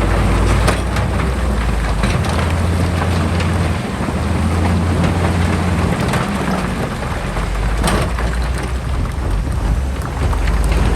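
Heavy diesel engine of earth-moving machinery running steadily under load, with a dense rumbling wash and a few sharp clanks, one about eight seconds in.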